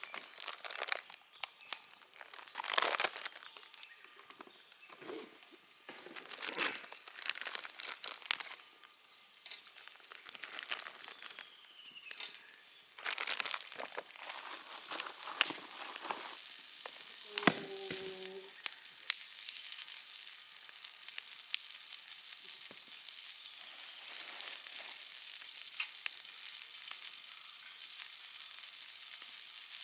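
Crinkling and handling clatter, as of a food package being opened, then a short metallic clink. From about two-thirds in, food sizzles steadily in a hot pan with small crackles.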